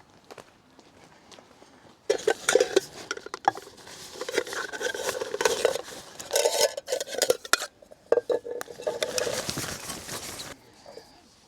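Metal pots and utensils clinking and clattering as they are handled, starting about two seconds in and stopping shortly before the end.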